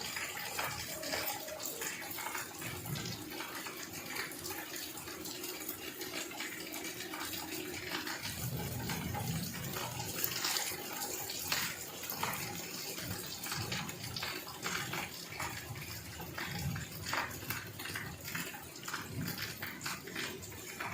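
Heavy rain pouring down and splashing, with water running: a steady rushing hiss broken by many small splatters.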